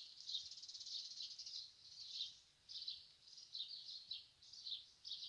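Birds chirping: many short, high notes at uneven intervals, with a fast trill in the first second.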